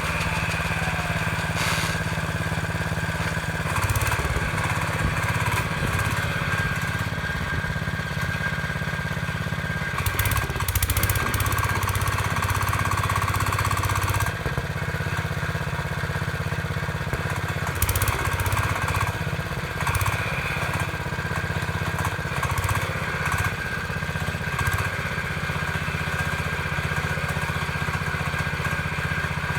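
Small gardening tractor's engine running, steady at first, then turning rough and uneven from a few seconds in to about halfway, and again a little later, as under load while it digs the soil. It settles back to a steady note near the end.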